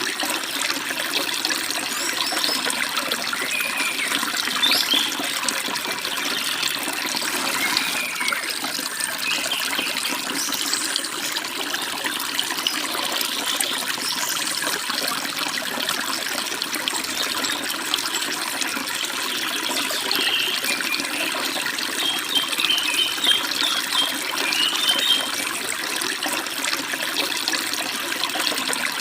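Forest stream running and splashing steadily over rocks. Birds chirp now and then above it, most busily in a spell about two-thirds of the way through.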